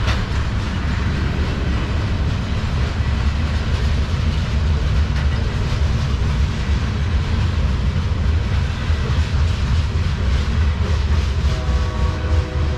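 Loaded crude-oil tank cars of a freight train rolling past: a steady heavy rumble with the wheels clicking over rail joints. A faint steady whine of a few tones joins near the end.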